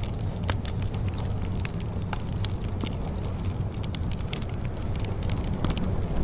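A fire crackling: frequent irregular sharp pops and snaps over a steady low rumble.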